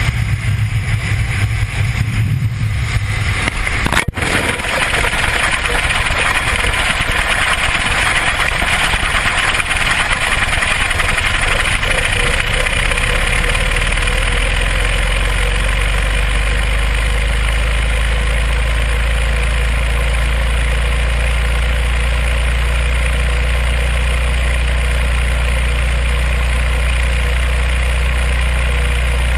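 Wind rushing over the microphone of a small camera falling from an airplane: a loud, steady noise, with a deep rumble that settles in about halfway through.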